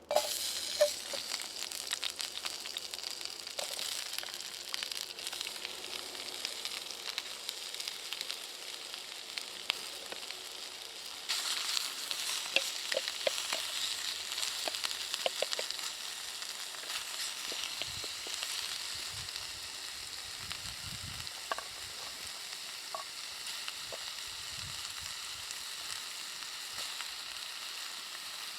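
Food frying in a pan, a steady sizzle with scattered small pops. It gets louder about eleven seconds in, then settles back a little.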